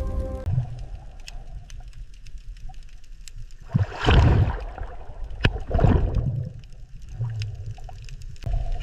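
Underwater ambience: a low rumble with scattered clicks and two rushing swells of water, about four and six seconds in.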